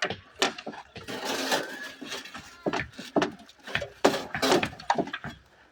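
Irregular wooden knocks and bangs from formwork boards being struck and handled, with a short scraping rush about a second in.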